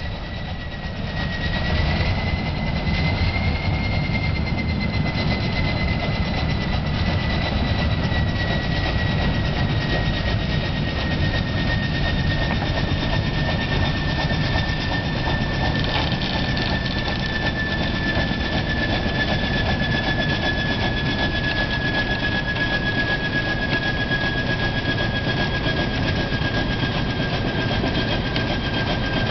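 TE2 diesel locomotive running: a low engine rumble under a steady high whine that slowly falls in pitch. It grows louder over the first couple of seconds, then holds.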